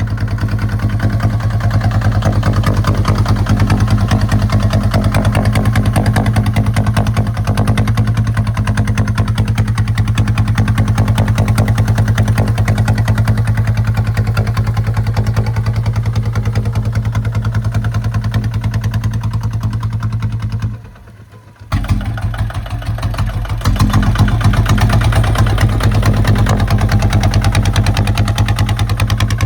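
Kubota ZT155 walking tractor's single-cylinder diesel engine running steadily under plowing work, with a rapid even firing beat. About two-thirds of the way through, the sound drops away sharply for about a second, then comes back.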